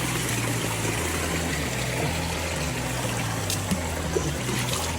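Water running steadily, a stream trickling over rocks.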